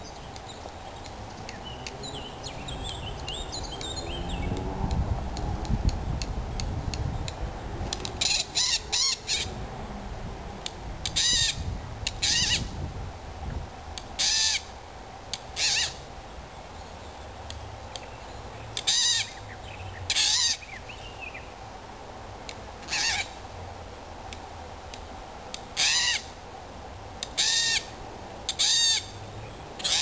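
A bird giving short, harsh, rasping calls, singly and in pairs every one to three seconds, with a low rumble of wind on the microphone in the first few seconds.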